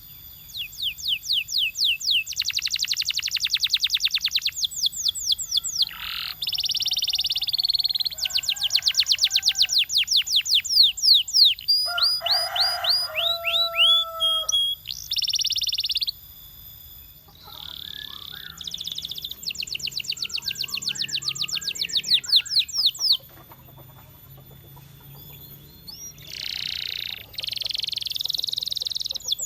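Canary singing: a string of fast trilled phrases, each a run of rapid repeated high notes, changing from one phrase to the next with short breaks, then a pause of about three seconds near the end before the song starts again.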